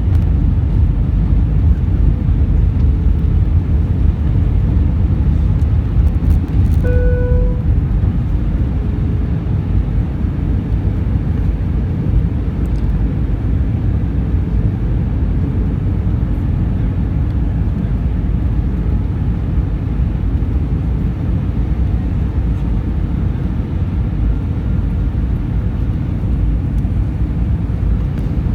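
Airbus A320 airliner in flight: a steady, loud low rumble of engines and airflow. A brief pitched tone sounds once, about seven seconds in.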